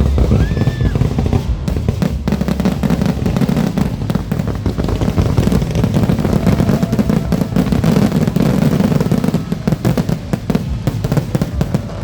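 Fireworks crackling: a dense, rapid run of sharp pops and cracks that goes on without a break.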